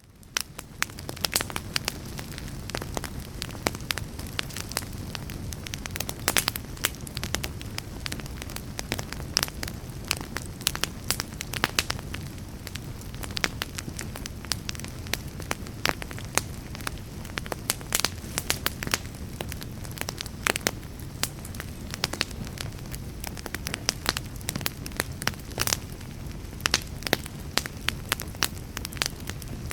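Wood fire crackling in a fireplace: a dense, irregular run of sharp pops and snaps over a low, steady rumble. The sound fades in over the first second.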